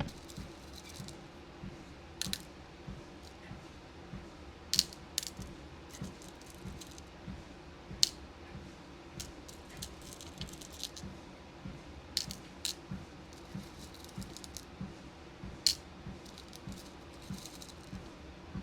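Small beads and pins clicking and rattling as they are sorted by hand, with a few sharper clicks standing out. Underneath is the steady rhythm of footfalls on a walking pad, with a low hum.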